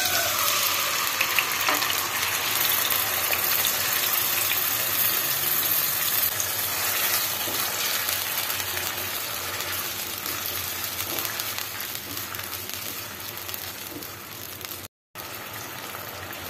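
Yogurt-marinated chicken sizzling in hot oil in a nonstick pan, loudest as it goes in and slowly settling to a quieter, steady sizzle as it is stirred. The sound cuts out for an instant near the end.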